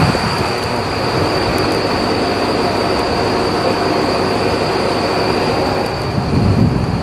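Tsugaru Railway diesel railcar running along the line, heard from on board: a steady rumble of engine and wheels with a constant high-pitched whine over it. The low rumble swells a little near the end.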